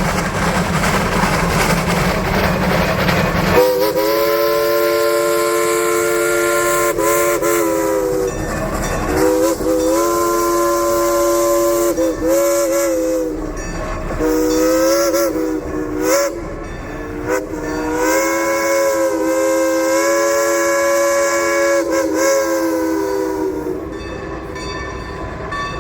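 Steam locomotive's chime whistle blown in a series of long and short blasts, several notes sounding together as one chord, the pitch sagging as each blast starts and ends. Steam hisses for the first few seconds, before the whistle comes in.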